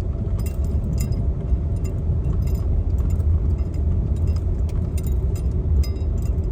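Car driving, heard from inside: a steady low road and engine rumble with many small clinking rattles scattered through it.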